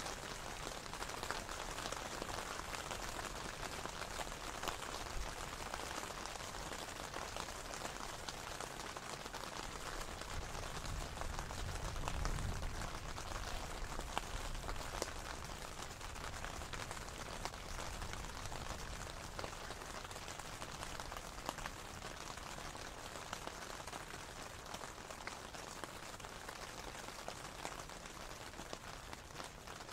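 Steady rain falling in a thunderstorm, with scattered close drop hits. A low rumble of thunder swells and fades about ten to thirteen seconds in, and the rain eases slightly toward the end.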